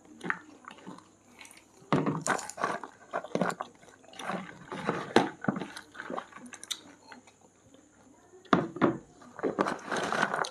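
People eating masala popcorn: irregular crunching and mouth sounds of chewing, in short clusters with quieter gaps between.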